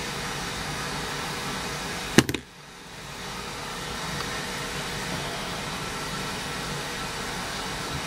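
Steady background hiss with one sharp click a little over two seconds in; after the click the hiss drops away and slowly climbs back.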